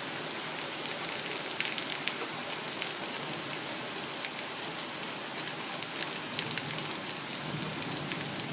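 Heavy rain falling steadily, an even hiss with individual drops ticking here and there.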